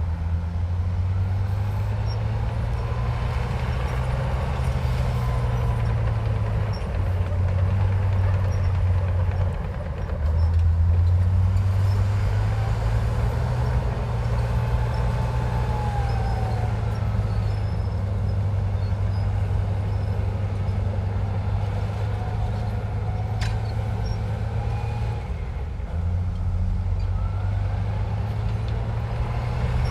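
Heavy diesel earthmoving machinery running under load, the engine note stepping up and down and swelling about ten seconds in, with faint gliding whines above it. A single sharp click about 23 seconds in.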